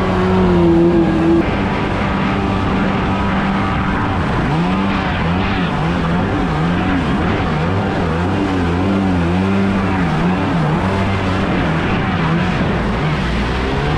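Stand-up jet ski engine running just after a hard restart: it holds a steady fast idle, then from about four seconds in is revved up and down again and again, and settles back to a steady idle near the end.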